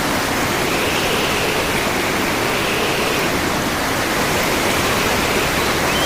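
Rough, cyclone-driven sea surf: waves breaking in a steady, continuous rush of noise.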